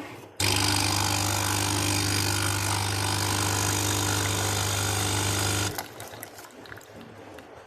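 Nespresso capsule coffee machine's pump buzzing steadily as it pushes more water through into the cup. It starts about half a second in and cuts off about five seconds later.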